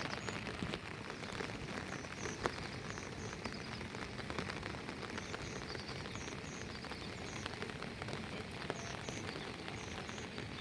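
Steady rain falling, with many individual drops ticking sharply as they strike. Faint high-pitched chirps in pairs recur every second or so.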